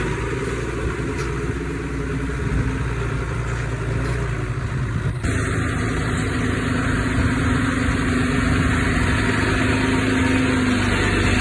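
Diesel engine of heavy earthmoving equipment running steadily. The sound changes abruptly about five seconds in, after which a steady engine hum is stronger.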